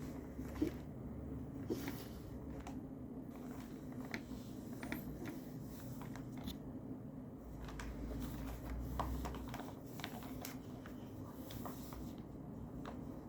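Scattered small clicks and short rustles of desk handling, such as paper and pen, over a steady low hum.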